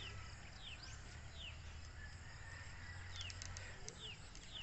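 A small bird calling faintly and repeatedly over quiet outdoor background, about five short high chirps that each fall in pitch, spaced unevenly.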